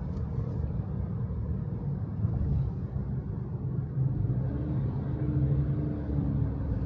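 A steady low rumble from a running vehicle.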